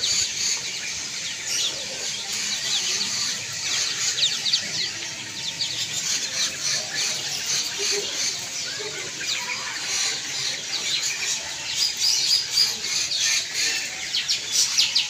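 Many caged songbirds chirping and calling at once: a dense, continuous chatter of short high chirps, busier near the end.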